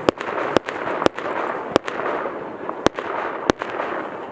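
Fireworks going off: six sharp bangs at irregular intervals of about half a second to a second, over a dense, continuous crackle.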